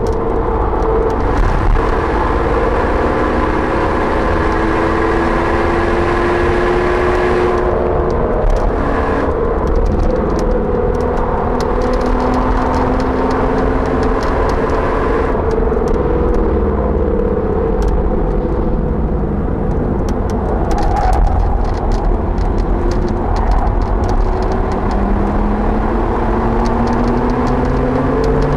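Audi RS4 driven hard, heard from inside the cabin: the engine's pitch climbs under acceleration and drops off between pulls, over a heavy rumble of road and wind noise. Many sharp clicks come through the middle stretch.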